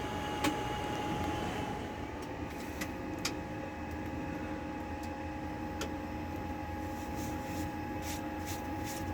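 Steady machine hum and whine with several held tones from a Boeing 787's powered-up flight deck, running on APU power, with scattered light clicks throughout.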